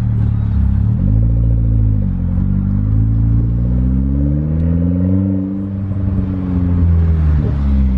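Mitsubishi Lancer's engine pulling away: the revs rise briefly about a second in, drop back, climb steadily for a few seconds, then fall away near the end.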